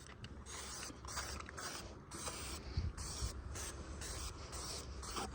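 Aerosol spray paint can hissing in a series of short bursts, each under a second, with brief gaps between them.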